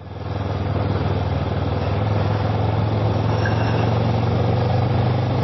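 Kawasaki ER-6f motorcycle's parallel-twin engine running steadily on the move, with wind and road noise over it; the sound grows louder over the first second, then holds steady.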